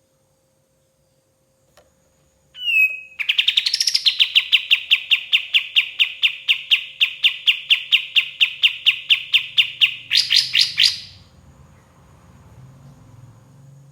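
White-shouldered triller (kapas tembak) singing. A short falling whistle leads into a long, even trill of about six sharp notes a second lasting some seven seconds. The trill ends in a brief, faster burst.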